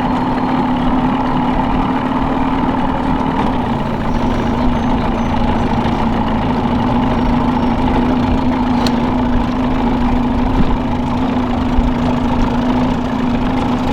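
Boat's outboard motor running steadily at trolling speed, a constant low drone.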